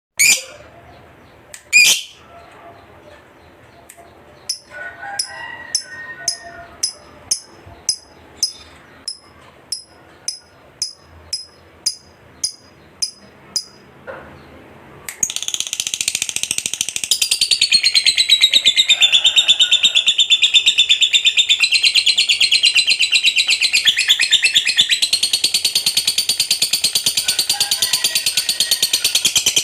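Lovebird calling: a few sharp chirps, then a run of short high chirps about two a second, then from about halfway a loud, long, unbroken rapid chattering trill, the 'ngekek panjang' prized in contest lovebirds.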